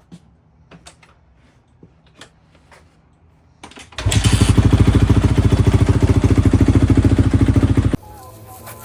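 A few light clicks and taps, then about four seconds in a Honda CRF250R's single-cylinder four-stroke engine is running loud with a fast, even pulse. It cuts off suddenly about four seconds later, leaving a quieter steady hum.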